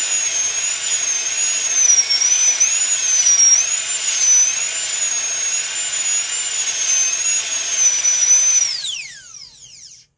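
Electric drill machine running at full speed with a high, wavering motor whine; about nine seconds in the trigger is released and the motor winds down, its pitch falling quickly until it stops.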